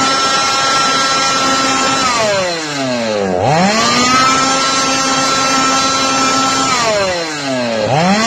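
Two-stroke C210 chainsaw engine held at full throttle with a high screaming pitch, twice dropping away for about a second as the throttle is released and then snapping straight back up to full revs.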